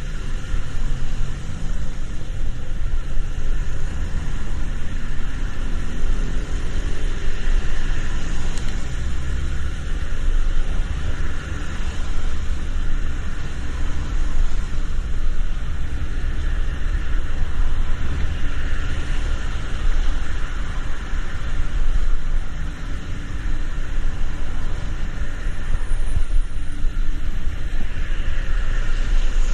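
A car on the move, with a steady low rumble of engine and road noise and a faint rising engine tone about six seconds in.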